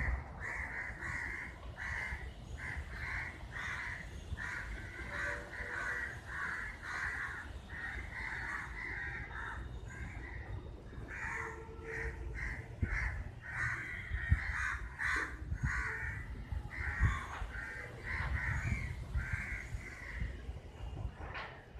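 Birds calling in a long, unbroken run of short calls, about two a second, over a low rumble, with a few sharp knocks around the middle that come from the handheld camera being moved.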